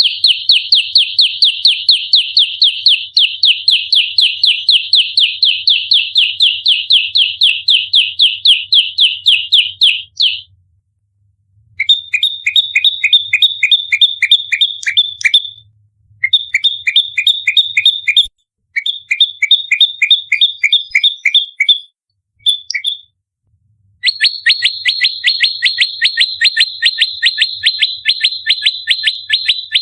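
Prenjak lumut giving its rapid fighting call, fast repeated sharp notes delivered in long bursts with short pauses between them.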